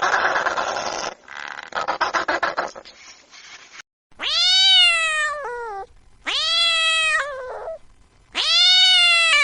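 Three long, drawn-out animal cries, each rising then slowly falling in pitch, starting about four seconds in. A rushing noise fills the first second.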